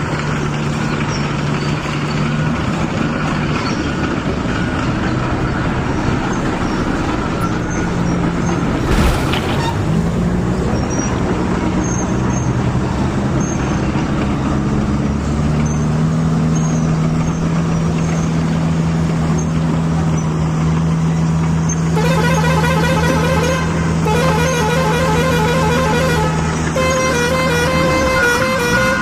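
A vehicle engine running steadily with a low drone. In the last several seconds a horn toots over it in a fast repeating pattern of pulses.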